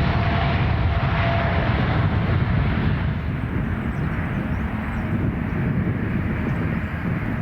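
Jet engine noise from a departing Boeing 787-9 airliner: a dense, steady rumble whose higher part fades after about three seconds.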